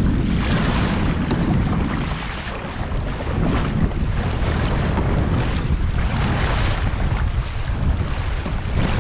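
Strong gusting wind buffeting the microphone in a heavy low rumble, with choppy lake water splashing around a kayak; the noise surges and eases in waves.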